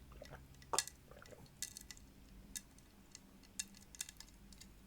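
Close-miked eating of pickled cucumbers: scattered wet mouth clicks and small crackles while chewing, with one sharper click about a second in.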